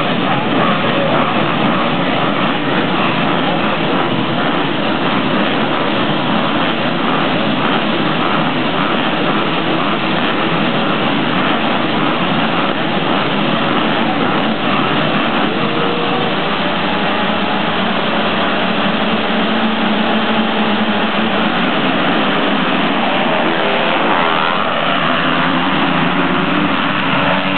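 A pack of motocross bikes racing away from the start, many engines revving loudly together in a dense wall of sound. In the second half it thins, and single bikes stand out, one revving up near the end.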